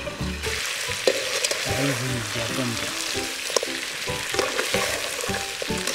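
Goat head pieces sizzling in oil in an iron kadai while a perforated metal skimmer ladle stirs them. The ladle scrapes and clicks against the pan now and then. The sizzle thickens about half a second in as the stirring turns the meat.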